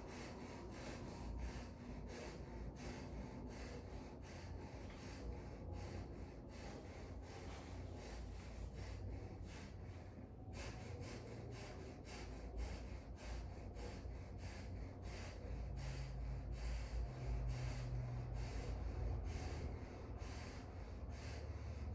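A person breathing through the nose during a diaphragm breathing exercise, faint, over a low steady rumble.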